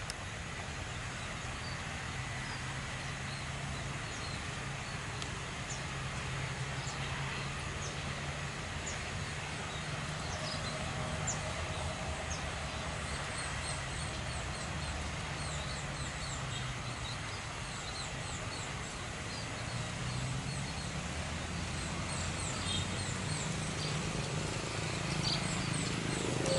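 Steady low rumble of distant jet engines, growing slowly louder toward the end, with small birds chirping in short high calls that come thicker from about halfway.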